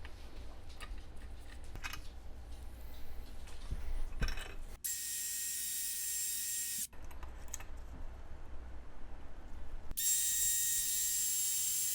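Power wire wheel scrubbing rust and grime from a bolt's threads, in two runs: a steady high whirring with a thin whine, about two seconds long starting about five seconds in, then again from about ten seconds in, each starting and stopping abruptly. Before the first run, light clicks of parts being handled.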